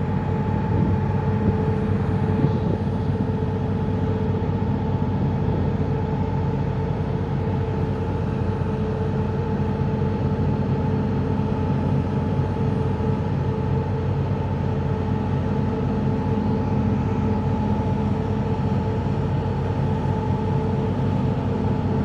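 Engine running steadily: a low drone with a constant whine above it, unchanging in level throughout.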